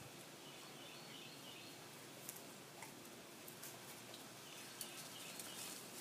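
Faint, high bird chirping in two soft spells, with light clicks and rustles of leaves and stems through the second half.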